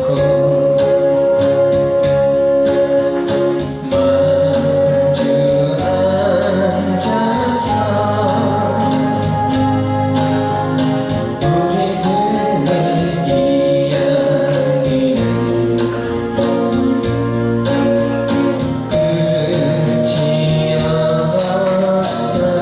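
A folk song sung to live acoustic guitar accompaniment, with long held notes.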